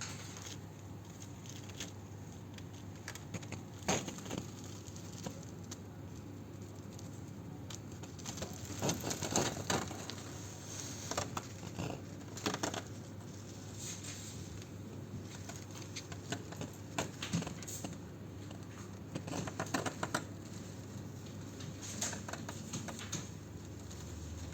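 Small birds moving about on a window ledge: scattered clusters of light taps and scratches from their feet and beaks, over a steady low hum.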